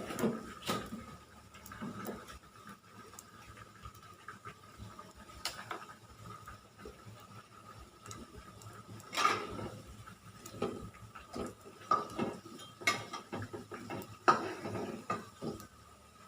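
Irregular knocks, clinks and clatter of kitchen utensils and cookware being handled, the loudest about nine and fourteen seconds in, over a faint steady high tone.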